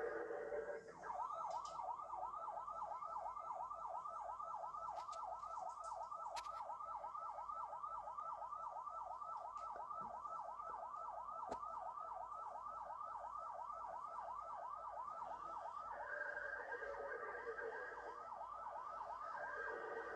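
Police siren sounding during a pursuit, running in a fast repeating yelp for most of the time and switching to a slower siren tone about a second in and again near the end.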